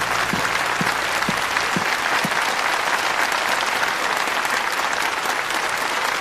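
Large audience applauding steadily, a dense patter of many hands clapping, as players are announced into a tournament arena.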